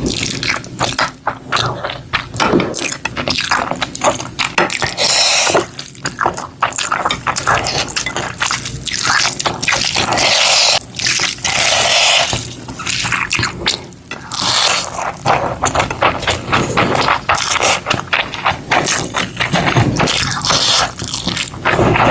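Close-up wet food-handling sounds: liquid dripping and sloshing, scraping, and many small sharp clicks, in irregular bursts.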